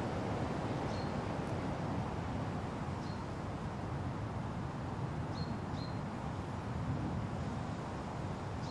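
Wind rushing steadily through forest trees, with a bird giving short high chirps every couple of seconds, two close together about halfway through.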